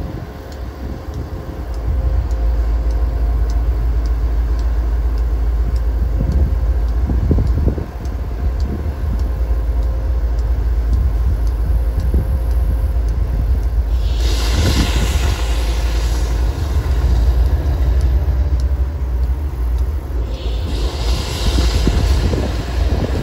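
A train running past with a steady low rumble, with two stretches of hiss about two-thirds of the way in and again near the end.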